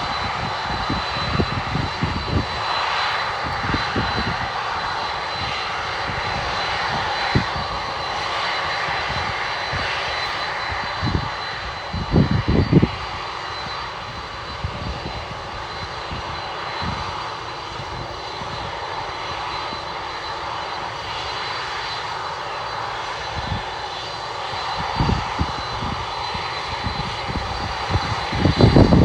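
Boeing 747-400F cargo jet's four turbofan engines running with a steady rushing noise and a high whine. Irregular low thumps come and go over it, loudest about twelve seconds in and again near the end.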